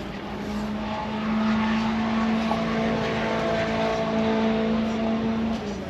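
Engine drone: a steady, even tone that steps up slightly in pitch and loudness about a second in and drops back just before the end.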